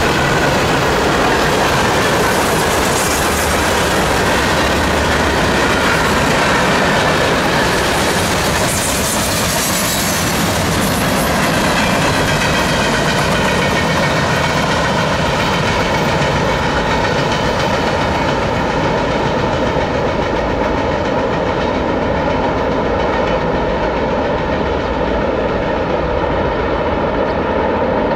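Freight cars of a CSX freight train rolling past on the rails: a steady loud rumble and wheel clatter. Steady ringing tones come through more clearly in the second half as the highest hiss fades.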